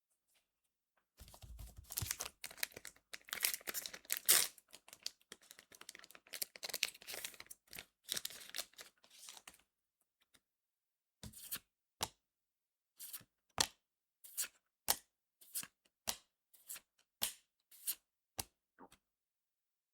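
A Cardfight!! Vanguard booster pack's wrapper being torn open, crinkling and tearing for several seconds. Then about a dozen short card snaps, roughly two a second, as the cards are flicked through one by one.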